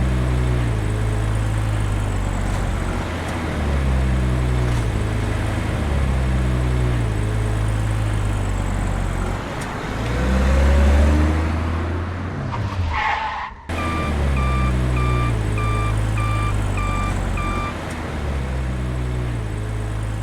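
Vehicle engine sound running in a pattern that repeats about every two seconds. After an abrupt cut a little past halfway, a high beeping sounds about twice a second for a few seconds over the engine.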